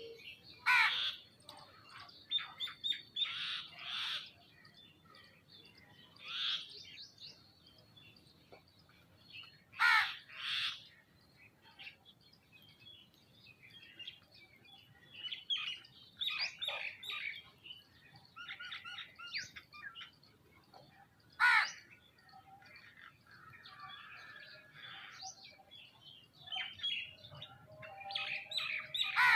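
Several birds chirping and calling over one another, with three louder, sharper calls spread through.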